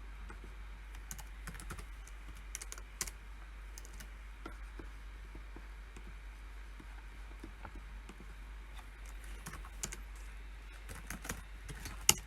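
Computer keyboard typing in short irregular runs of key clicks, sparse in the middle, with one sharper, louder key strike near the end.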